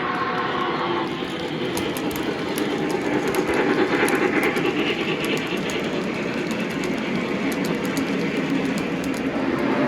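Model train running on the layout's track, a steady rumble with quick irregular clicks from the wheels over the rail joints. A held tone stops about a second in.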